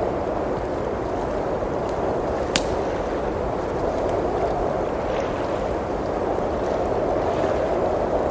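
Blizzard wind blowing steadily with gentle swells, with a fireplace crackling: one sharp pop about two and a half seconds in and a few fainter ticks later.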